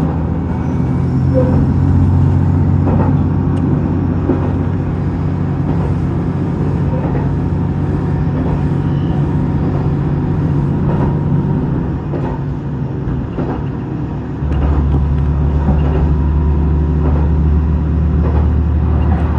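JR Shikoku 2000 series diesel railcar under way, heard from inside: a steady low engine and running drone with faint clicks of the wheels over the rails. The drone dips about two-thirds of the way through, then comes back stronger.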